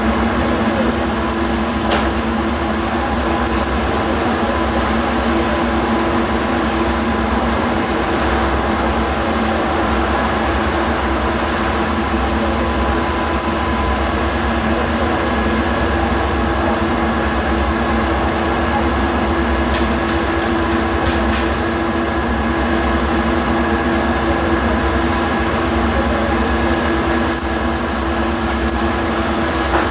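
Steady mechanical hum with a constant hiss, unbroken throughout, like industrial machinery running.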